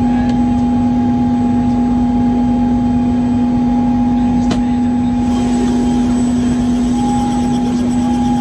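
Helicopter in flight, heard from inside the cabin: a loud, steady drone with a constant low hum and a fainter higher whine over it.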